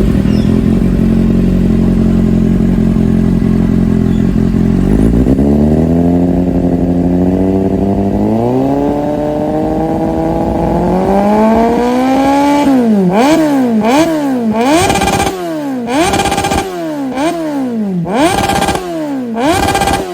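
Kawasaki Z800's inline-four engine through a LeoVince LV-10 titanium exhaust, idling steadily for about five seconds. It is then revved gradually higher in steps, and from about two-thirds of the way in it is blipped sharply up and down many times in quick succession.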